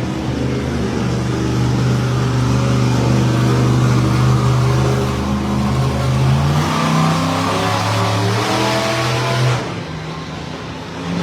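Monster truck engine running loud, its pitch climbing about six and a half seconds in as it revs up, then easing off sharply near the end.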